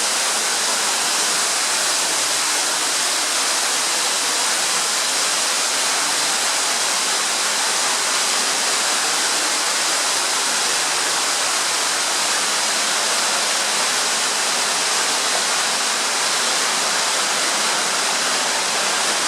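Underground waterfall in a water tunnel: a steady rushing of falling water.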